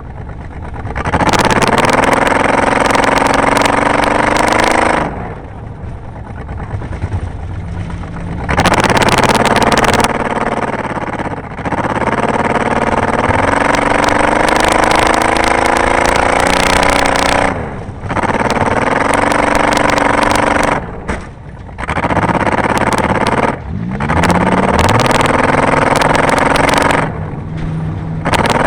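Race car engine accelerating hard again and again, its pitch climbing through each run and falling away when the throttle is lifted, several times over.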